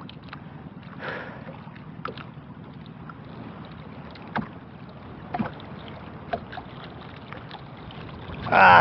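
Wind and lapping water around a small paddle boat, with a few scattered light knocks.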